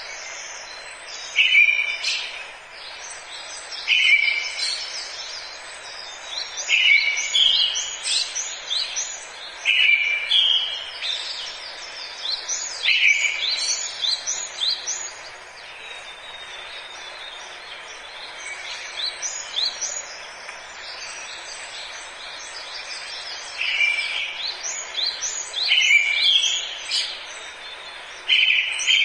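Forest birdsong: one bird repeats a short loud phrase every two to three seconds while other birds chirp quickly and high above it, over a steady background hiss. The repeated phrase pauses for several seconds past the middle and then returns.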